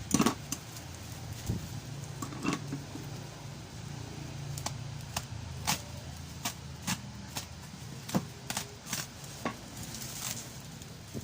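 Cardboard box and packaging being handled and opened: scattered sharp clicks and knocks, about a dozen, over a low steady hum.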